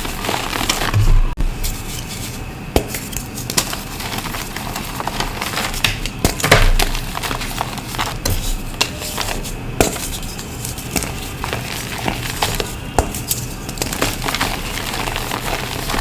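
Reformed gym chalk lumps being crushed: irregular crisp crunches and crackles, a few noticeably louder than the rest.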